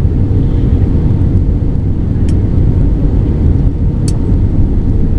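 Steady low rumble inside the cabin of an Airbus A320-214 from its CFM56 engines and the rushing air, with two faint ticks partway through.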